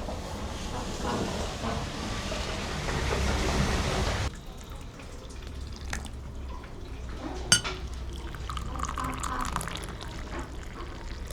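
Liquid being poured for about four seconds, growing louder, then stopping abruptly. A single sharp clink follows a few seconds later.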